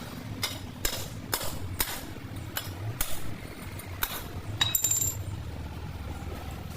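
Hammer blows on metal, about two a second, one of them near the end leaving a brief metallic ring, then they stop over a steady low hum.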